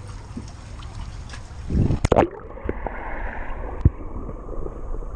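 A splash about two seconds in as the waterproof GoPro plunges into the water, then muffled underwater rushing and bubbling with a few dull knocks, all the high sounds cut off.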